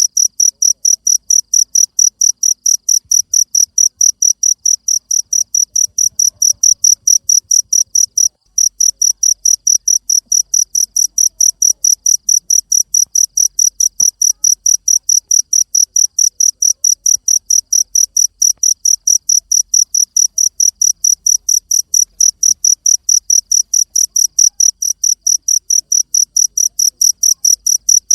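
A cricket chirping: a high, even chirp repeated about four times a second, with a brief break about eight seconds in.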